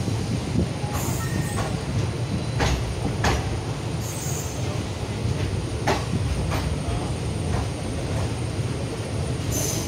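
An express passenger train heard from inside a coach at the open window: a steady low rumble of the running gear, with a few sharp clacks from the wheels on the track.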